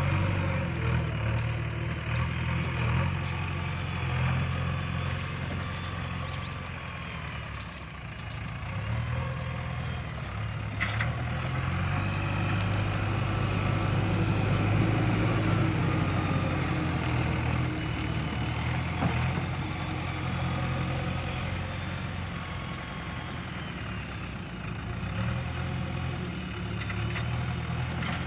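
Heavy diesel engine of earth-moving machinery running near idle, its speed rising and falling several times. There is one short click about eleven seconds in.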